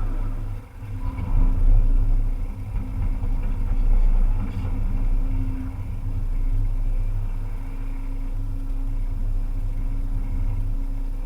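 Volvo EC300EL excavator's diesel engine running with a steady low drone, dipping briefly just under a second in and swelling louder about two seconds and four seconds in.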